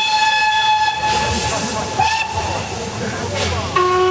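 Steam locomotive whistles over a steady hiss of steam: a high whistle holds for about two seconds and sounds again briefly, then a lower-pitched whistle starts near the end.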